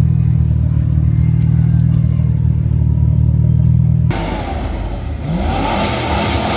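A car engine running with a steady low drone. After about four seconds the sound changes abruptly to a car's engine rising and then falling in pitch, as when a car drives past.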